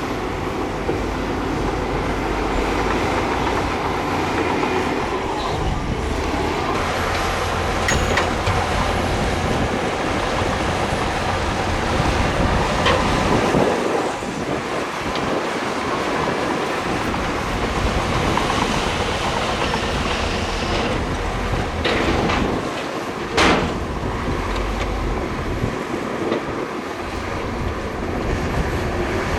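Heavy crawler bulldozer working: the diesel engine runs steadily under the clatter and squeal of its steel tracks, with metallic clanks now and then and one sharp loud clank late on.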